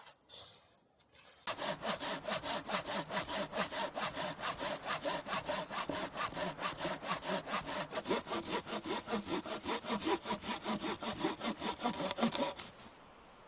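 Hand saw cutting through wood in fast, even back-and-forth strokes. It starts about a second and a half in and stops about a second before the end.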